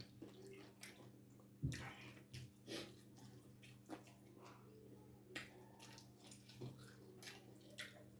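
Quiet eating sounds from a meal of bone soup and ugali: irregular short clicks and mouth noises, the loudest a little under 2 seconds in, over a steady low hum.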